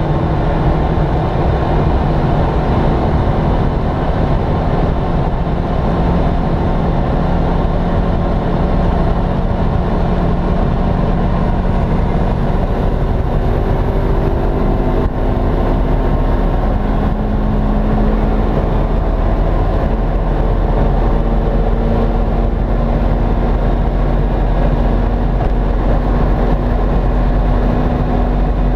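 Turbocharged Opel Kadett E (Vauxhall Astra Mk2) with a two-litre four-cylinder turbo engine, running hard at high speed on one long, steady pull. Its note rises slowly, with road and wind noise underneath.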